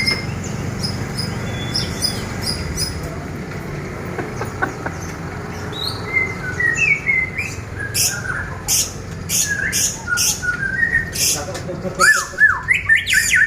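Caged songbirds singing: quiet at first, then a run of quick short whistled notes and chirps from about halfway through, mixed with sharp clicking calls, growing busier and louder toward the end.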